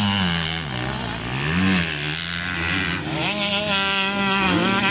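250 cc motocross bikes racing, engines revving up and falling back again and again, with one bike revving up louder about three seconds in.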